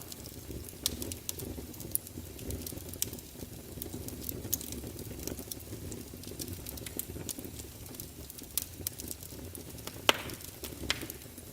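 Fire crackling in a fireplace: a steady low rush of flame with frequent sharp pops, one louder pop about ten seconds in.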